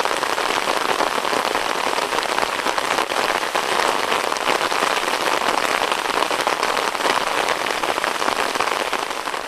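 Heavy rain falling steadily: an even, dense hiss made of countless fine drop hits, with no let-up.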